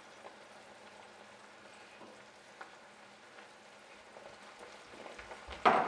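Faint, steady sizzle of a pan cooking on the stove, with a few light clicks and one sharp knock near the end.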